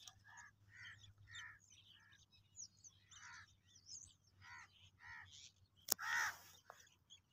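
Faint birds calling: a run of short, harsh, caw-like calls about every half second, with thin high chirps over them. About six seconds in comes one sharp crack, followed at once by a louder harsh call.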